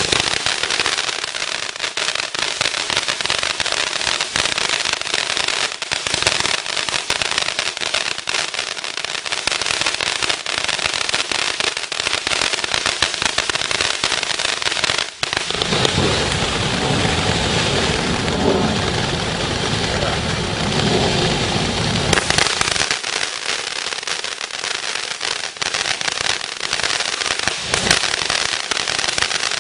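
A 200-gram fountain firework spraying, with a dense, continuous crackle throughout. From about halfway through, for some six seconds, it swells into a fuller, deeper rush before thinning back to crackling.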